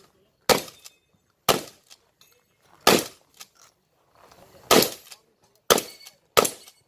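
Shotgun fired six times at an uneven pace, about a second or more between shots, each shot a sharp crack with a short echo.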